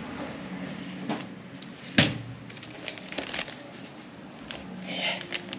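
A single sharp knock about two seconds in, among scattered lighter clicks and knocks, over a faint low steady hum.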